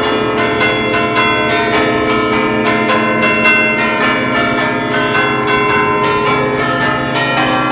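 A peal of nine bronze church bells in B-flat, cast in 1931 by Francesco D'Adda e figli of Crema, struck by hand in a rapid festive allegrezza tune. Strikes come several a second and their rings overlap without a break.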